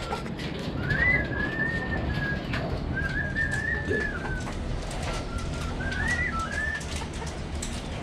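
Budgerigar (Australian parakeet) calling: a few drawn-out, wavering whistled calls in a row, with small clicks between them.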